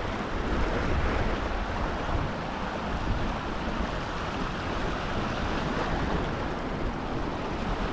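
Sea surf washing against shoreline rocks in a steady wash, with wind buffeting the microphone.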